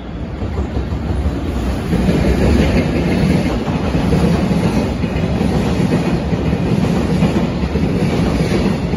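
A train running on the rails, its wheels clattering over rail joints, growing louder about two seconds in and staying loud.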